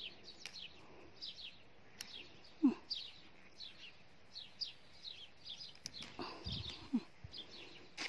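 Small songbirds chirping in many quick, short, high notes that slide downward. A short lower call falling in pitch stands out a little under three seconds in, and there are a few faint clicks.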